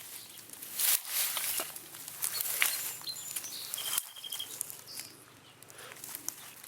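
Rustling, scraping and irregular clicks of someone moving through leaf litter and creek-bed debris, searching by hand. A few short, high bird chirps are heard near the middle.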